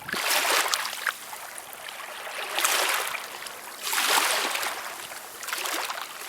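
Small waves washing in on a pebbly shore at low tide, each wash a soft hiss that swells and fades, about four or five of them at roughly one-and-a-half-second intervals.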